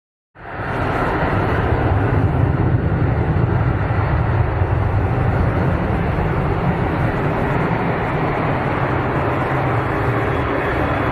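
Jet engines of an Airbus A330-200, a loud steady rumble and roar heavy in the low end. It starts abruptly after a moment of silence and builds over about half a second.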